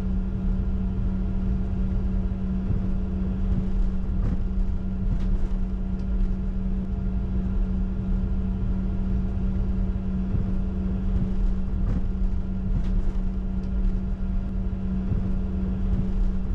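Steady cockpit noise of a Bombardier Challenger 605 taxiing with its turbofan engines at idle: a constant low hum with a rumble underneath and a few faint ticks.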